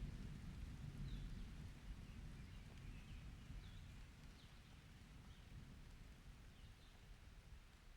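Low rumble of distant thunder dying away, with faint short high chirps scattered through it, about one a second.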